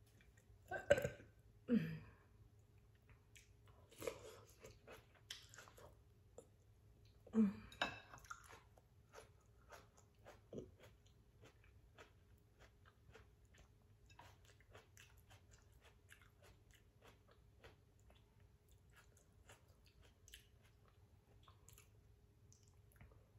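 Close-miked mouth sounds of a person eating soft tofu stew and fried rice: a few louder wet mouth noises in the first eight seconds, then soft, steady chewing clicks.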